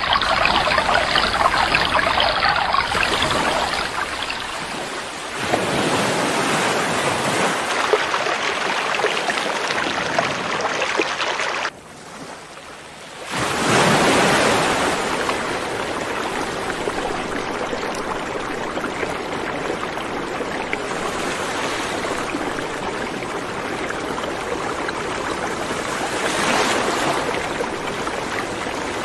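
Flowing river water, a steady rushing noise whose character changes abruptly several times. It drops much quieter for about a second and a half near the middle, then comes back.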